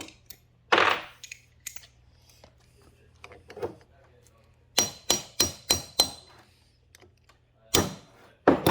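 Metal-on-metal hammer taps on a tool: a single knock about a second in, then five quick ringing strikes in a row, and two more strikes near the end. The taps bend the locking tabs of a cam bolt retainer down flat so the bolts can be loosened.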